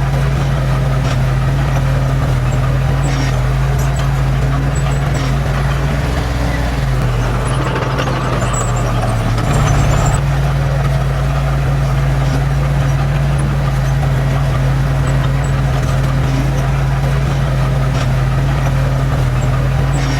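Heavy diesel engine of earthmoving machinery running steadily, its speed dropping about a third of the way in and picking back up about halfway through, with a rush of extra noise as it does.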